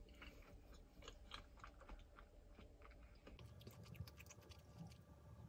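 Near silence with faint chewing: soft, scattered mouth clicks and small crunches.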